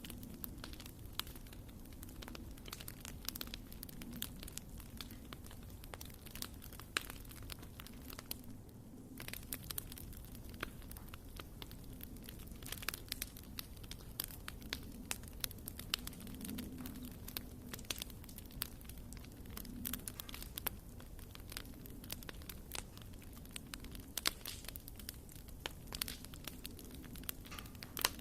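Wood fire burning in a fireplace, crackling with many irregular sharp pops over a low steady hum.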